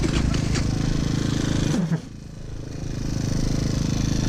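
Small Chinese scooter or pit bike motor sounding steadily, then cutting out about two seconds in and building back up. The bike is being cranked and is refusing to start.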